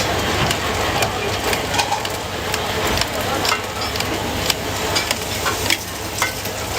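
Food sizzling on a hot pan or griddle, with metal utensils repeatedly clinking and scraping against it.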